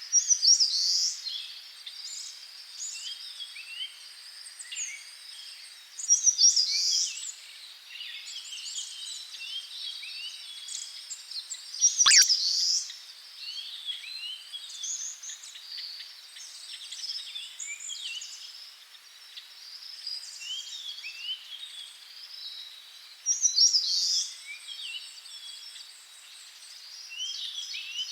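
Many songbirds chirping and singing over one another, a busy chorus of short high calls, with louder bursts about six, twelve and twenty-four seconds in.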